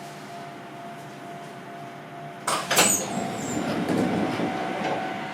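Sound inside a Sangi Railway Hokusei Line narrow-gauge train car: a steady quiet hum with a thin tone. About two and a half seconds in there is a sudden clatter and a brief high squeal, then a louder rumbling that carries on.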